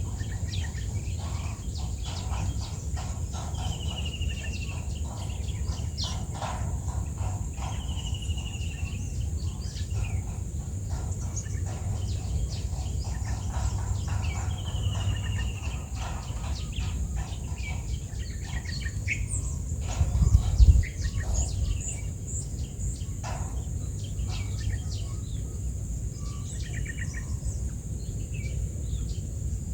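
Outdoor summer ambience of birds and insects: a steady high-pitched insect buzz under scattered bird chirps, with three short falling whistles in the first half. A low rumble runs throughout and swells briefly in a louder thump about twenty seconds in.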